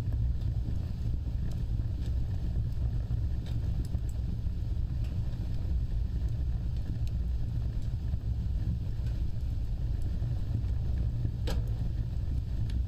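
Wood fire burning with a steady low roar of flames and scattered small crackles, one sharper pop near the end.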